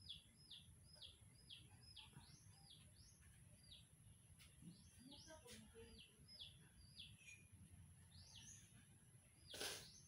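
A bird chirping faintly and repeatedly, short falling chirps about three a second in runs with short pauses. A brief burst of noise comes near the end.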